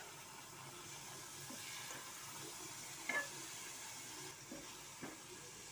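Potatoes and green peas sizzling in fried masala in an open pressure-cooker pot, with a metal spoon stirring and scraping against the pot a few times, the loudest scrape about three seconds in.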